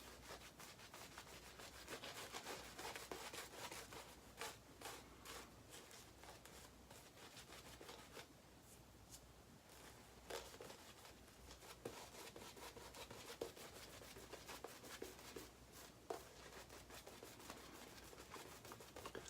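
Shaving brush being worked against shaving soap and lather, faint irregular rubbing strokes of the bristles.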